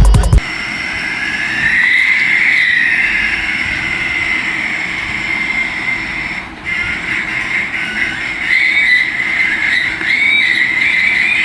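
Small electric motor and gears of a battery-powered toy running steadily, a high whine that wavers up and down in pitch over a hiss. Background music cuts off just after the start.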